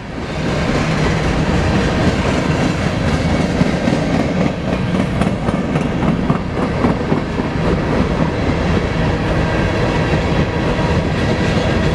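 Loaded coal cars of a long freight train rolling past, their steel wheels running steadily and loudly on the rails.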